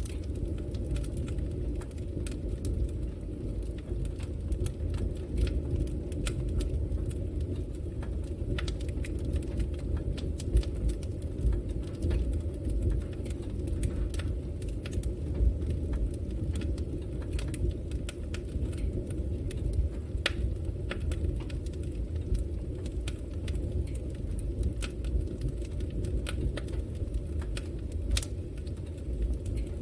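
Fire burning in a fireplace: a steady low rumble of flames with frequent small crackles and pops scattered irregularly throughout.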